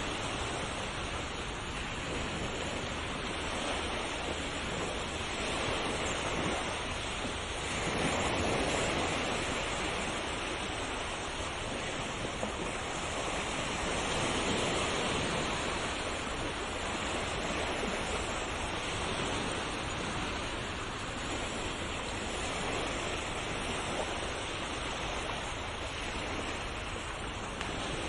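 Ocean waves breaking and washing on a shore: a continuous rush of surf that swells gently now and then.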